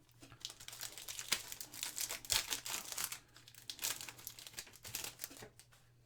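Foil trading-card pack wrapper being torn open and crinkled, a dense crackling that dies away about five and a half seconds in.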